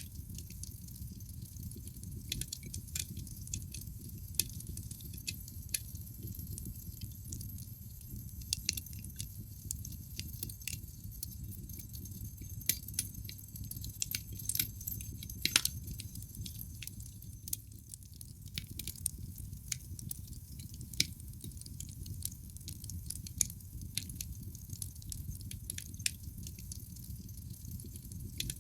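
Logs burning in a fireplace, crackling: irregular sharp pops and snaps over a low steady rumble of the fire, with one sharper pop about halfway through.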